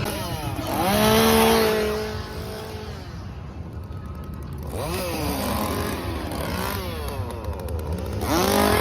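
Chainsaw engine revved up and let back down three times, each rev rising and falling in pitch: about a second in (the loudest), around five seconds, and near the end.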